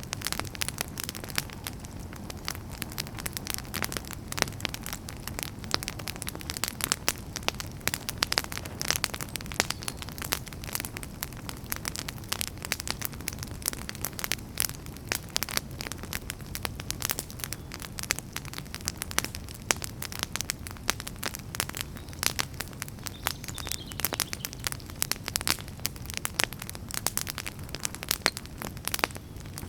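Wood fire crackling in a fireplace: frequent sharp, irregular pops and snaps over a steady low rumble of flame.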